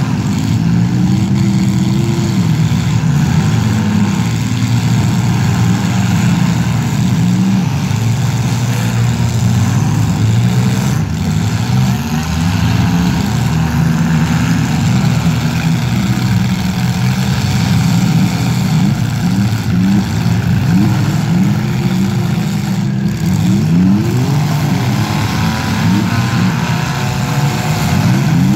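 Engines of several modified compact demolition-derby cars running and revving together, their pitch rising and falling throughout, with a run of quick rising revs a little past the middle.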